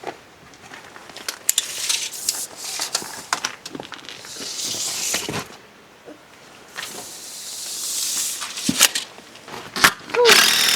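Rustling with scattered clicks and knocks, as of materials being handled. Near the end a steady high whine starts.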